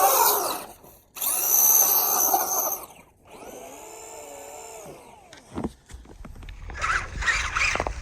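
Electric motor of a Traxxas Rustler 2WD RC truck whining in throttle bursts, its pitch rising and falling as it speeds up and slows down. It cuts out briefly about a second in, and there is a softer whine in the middle. Near the end comes a rougher, crackling noise.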